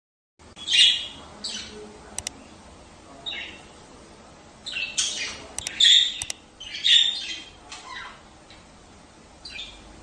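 Budgerigars calling: a series of short, harsh squawks and chirps about a second apart, with a few sharp clicks among them. The calls start about half a second in.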